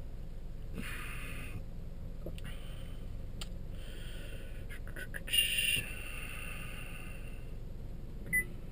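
Steady low hum inside a 2021 Chevy Malibu's cabin with its engine running, broken by a short, sharp electronic chime about five seconds in and a brief beep near the end.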